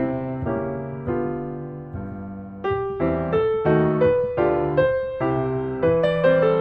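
Gentle solo piano music, slow single notes and chords that ring out, the notes coming faster from about three seconds in.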